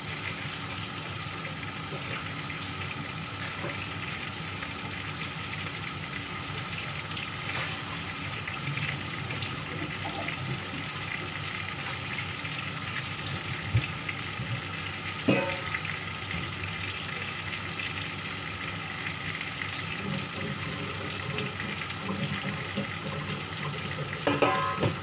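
Chicken pieces sizzling steadily as they fry in oil in a pan on a gas burner. A couple of sharp clicks come in the middle, and a ringing clink near the end is the loudest sound.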